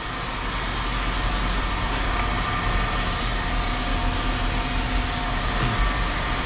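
An engine running steadily under a broad even hiss, with a faint hum.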